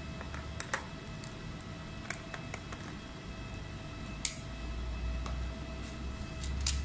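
Scattered small clicks and taps from handling a laptop and tools on a repair bench, over a steady electrical hum.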